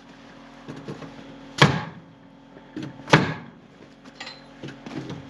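Two loud, sharp knocks about a second and a half apart, with fainter knocks between, from fastening wall sheeting onto the barn's wood framing.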